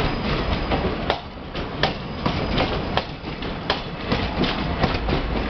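Indian Railways express train rolling past at low speed. Its wheels click sharply over rail joints at an uneven pace, roughly once a second, over a steady low rumble.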